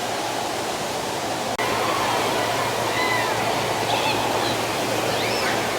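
A steady wash of noise, like a crowd or rushing water, that steps up slightly about a second and a half in, with faint high distant voices rising and falling near the end.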